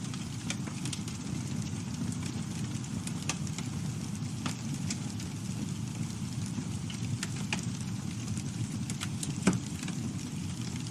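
Wood campfire burning: a steady low rush of flame with frequent sharp crackles and pops from the burning wood, one louder pop about nine and a half seconds in.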